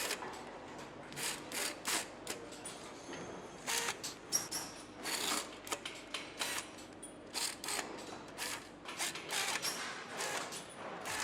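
Assembly-line work noise: irregular sharp clicks, taps and clanks of tools and parts being handled, several a second, over a steady low factory hum.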